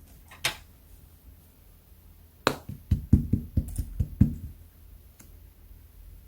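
Hands pressing and poking a thick clay-mixed slime: a sharp click, then a quick run of about nine low pops and squishes, and a faint click near the end.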